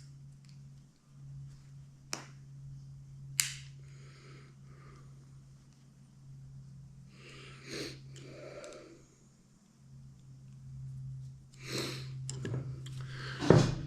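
Handling noises as a part is forced into a tractor's hydraulic lift cylinder: a couple of sharp clicks, then softer scraping and rustling, over a steady low hum.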